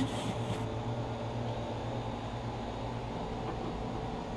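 A grill grate being scraped clean trails off about half a second in, leaving a steady low hum of background noise.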